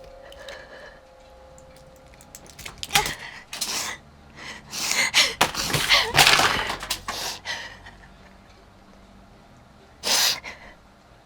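A series of breathy gasps from a person, short noisy puffs that come thick and loud through the middle, with one more near the end. A held music tone fades out at the start.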